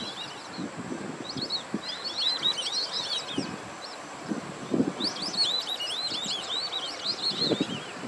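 Small birds chirping in quick, high twittering runs: one burst about two seconds in and a longer one from about five seconds. Scattered low muffled thumps underneath.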